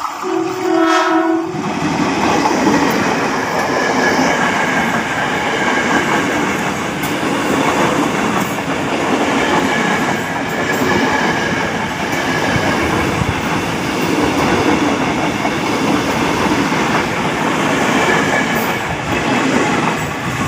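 KRL commuter electric train sounding its horn once, briefly, then running loudly with a steady rumble and wheels clacking over the rail joints.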